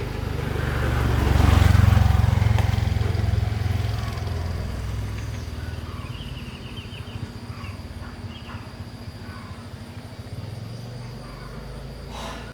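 A motor vehicle's engine running with a deep rumble, loudest about two seconds in and then slowly fading away.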